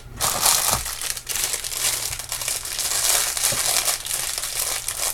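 Plastic jewelry packaging bags rustling and crinkling as they are handled and opened, a continuous irregular crackle with small sharp crinkles.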